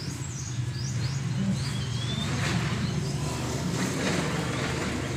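Birds chirping in short high calls over a steady low hum.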